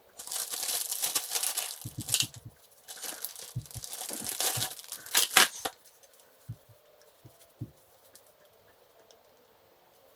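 Crinkling and tearing as a bag is handled in irregular bursts for about six seconds, then a few light clicks.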